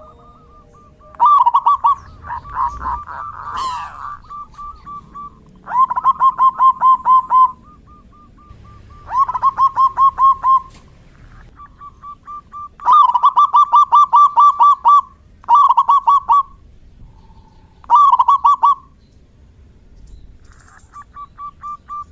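Zebra doves cooing: about seven bursts of quick, rapidly repeated notes, each lasting one to two seconds, with a fainter string of steady notes from another dove in the gaps.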